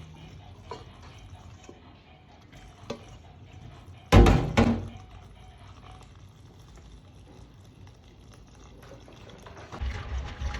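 Faint kitchen sounds of liquid pouring, with a light knock near three seconds and one loud, sudden clatter about four seconds in that rings briefly.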